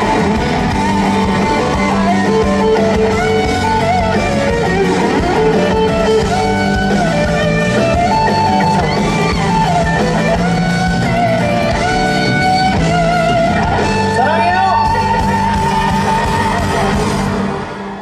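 Live band playing a ballad's closing passage, a guitar carrying a wavering melody over a steady bass, fading down right at the end.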